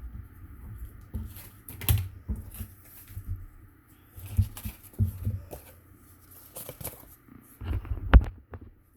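Paper and cardboard being handled on a work surface: irregular rustles and light knocks, the sharpest knock near the end.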